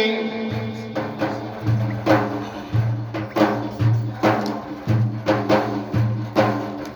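Instrumental interlude of devotional chant music: a quick, steady percussion beat of about two to three strokes a second, with deeper low beats about once a second over a steady low drone.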